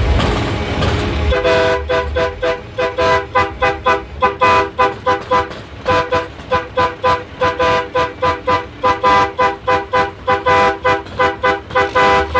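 Truck horn tooted in a long run of short, quick blasts, about three a second, starting a little over a second in, with a brief pause about halfway.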